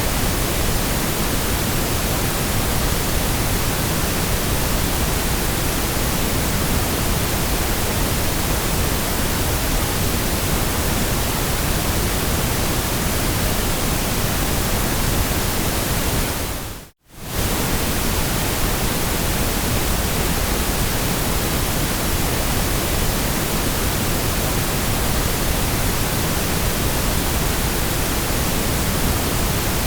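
Steady white noise, an even hiss from deep rumble up to high treble. A little over halfway through it fades out to silence for under a second and comes straight back.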